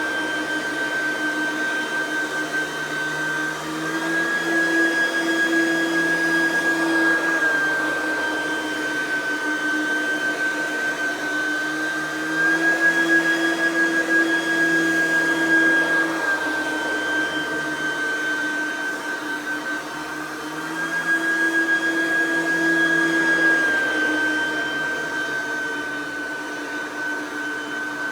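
Oreck XL9100c upright vacuum running, its small 3.2-amp direct-air motor giving a loud, steady whine. The pitch shifts slightly up and down every four seconds or so.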